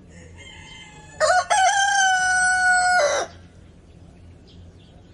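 A rooster crowing: one loud crow of about two seconds, with a short catch near its start, held on a steady note and dropping off at the end. A fainter call comes just before it.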